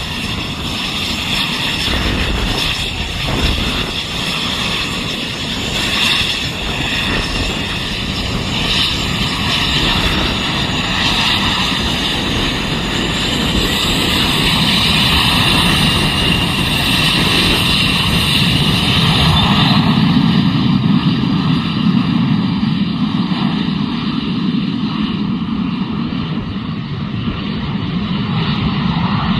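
Cessna Citation Mustang's twin turbofan jet engines running with a steady high whine, then a whine rising in pitch as they spool up for takeoff. From about two-thirds of the way through, the highest whine fades and a deeper jet roar takes over.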